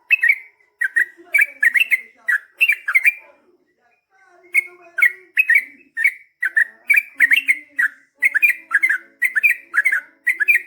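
Yellow-vented bulbul (trucukan) singing: a rapid run of short, clear whistled notes, with a brief pause about three and a half seconds in.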